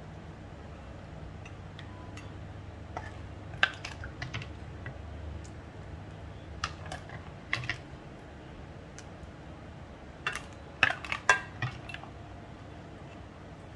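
Kitchen utensils knocking and clinking against cookware in scattered bursts of sharp clicks, over a steady low hum.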